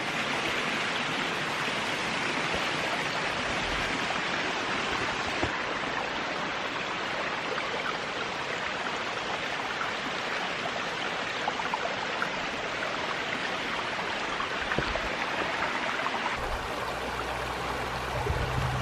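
Brook running high after heavy rain, water rushing steadily over rocks, with a low rumble coming in near the end.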